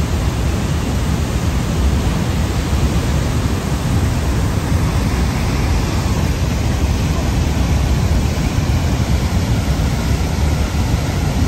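Loud, steady rushing noise, heaviest in the low end, with no distinct events.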